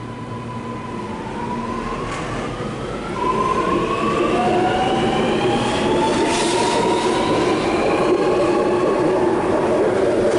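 Sydney Metro train (Alstom Metropolis) pulling away and accelerating, its traction motors giving a whine of several tones that climb steadily in pitch. The train gets louder about three seconds in.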